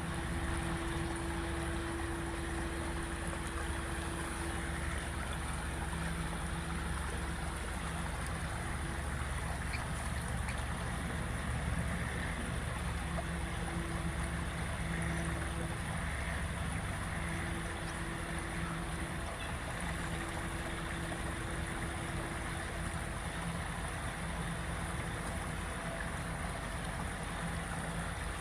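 Creek water running steadily, an even rushing sound with no distinct events.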